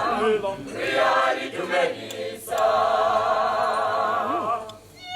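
Group of voices singing together, ending on a long held note with vibrato that stops shortly before the end.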